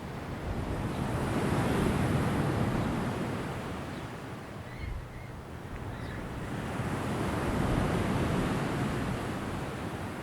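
Ocean waves washing onto a shore, swelling and receding twice, with peaks about six seconds apart.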